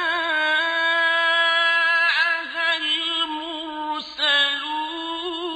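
A male voice reciting the Quran in a drawn-out, melodic chant, holding long, ornamented notes on the words "idh jā'ahā" (when it came to them), with short breaks between phrases.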